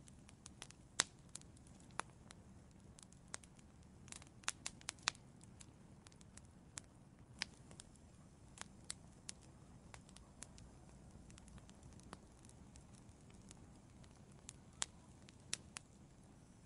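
Wood fire burning in an outdoor fireplace, crackling with sharp irregular pops, a quick run of them about four seconds in, over a faint low rumble of the burning.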